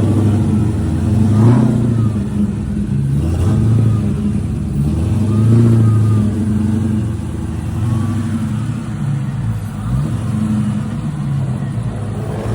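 Supercharged Pontiac GTO's V8 running at a fast idle and revved several times, each rev rising and falling back.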